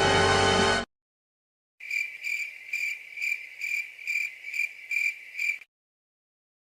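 A stock cricket-chirping sound effect: a high, steady chirp pulsing about twice a second for nearly four seconds. It is preceded by a loud buzzing tone in the first second that cuts off abruptly.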